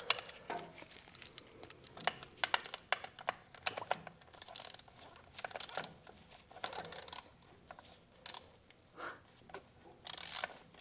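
Irregular small metallic clicks and taps of a wrench working a fuel-filter fitting on a Yanmar 1500 diesel tractor as it is snugged tight, with a brief scraping rattle near the end.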